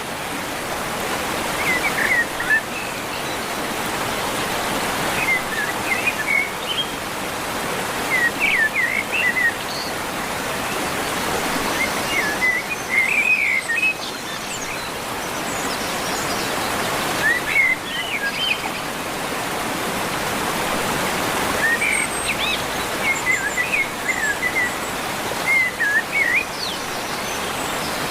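A bird singing short bursts of quick, twittering chirps, repeated every few seconds over a steady rushing noise.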